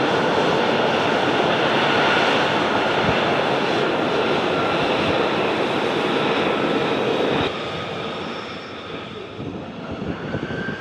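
F-35 Lightning II jet engine running: a loud, steady rush of noise with a faint high whine. About two-thirds of the way through it drops sharply to a quieter, unsteady rumble.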